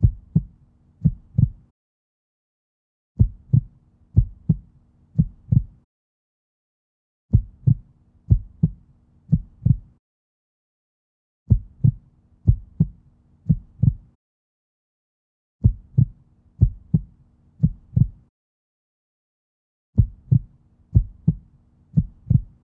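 An edited soundtrack of deep bass thumps in quick runs of about two and a half seconds, each run over a low hum and followed by a second and a half of silence, repeating about every four seconds.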